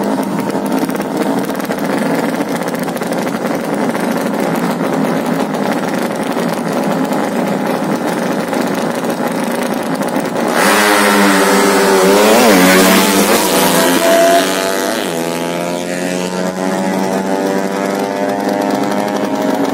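Drag-race underbone motorcycle engines running at a steady level, then about halfway through a sudden loud burst of hard revving as the bikes accelerate away, the pitch rising and falling several times before settling into a steadier high note.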